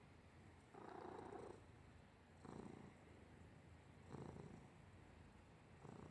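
Brown tabby cat purring, faint and low, with a louder swell every couple of seconds as it breathes.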